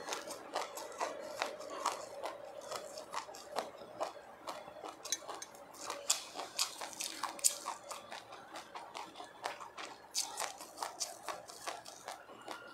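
Sesame seeds being chewed close to the microphone: a steady run of small, sharp crackles, several a second.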